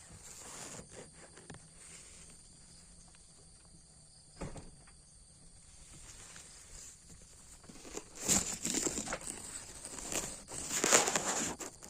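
Irregular crackling and rustling, like dry leaves or plant stems being handled or brushed, growing louder in the second half, over a steady high insect hum.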